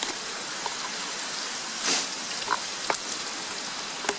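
Breakfast of bacon, square sausage and potato scone sizzling in a frying pan: a steady hiss with scattered pops and one louder spit about two seconds in.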